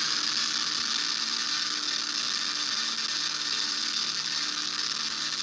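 A steady mechanical whirring noise, with a faint low hum underneath that comes and goes.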